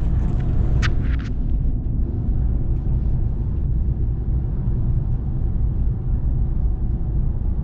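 Steady low road and engine rumble inside a moving car's cabin, with two short clicks about a second in.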